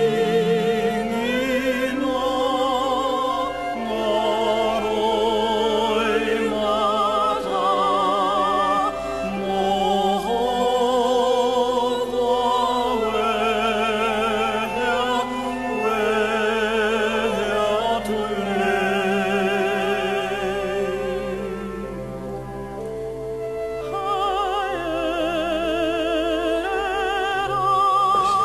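Operatic classical singing with vibrato over an orchestral accompaniment.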